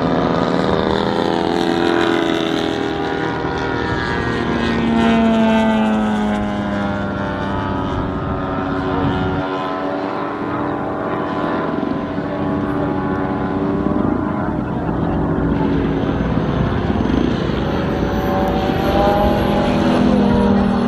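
Moki radial engine of a large radio-controlled Corsair model in flight, running continuously with its pitch sliding up and down several times as the plane passes by and the throttle changes.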